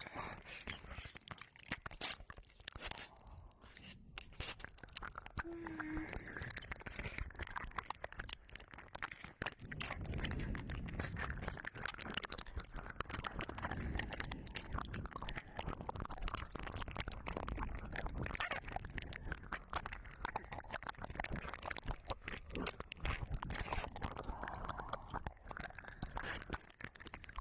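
Ear-licking and mouth sounds recorded close up on a 3Dio binaural microphone: a continuous run of wet clicks, smacks and crackles close to the mic's ears.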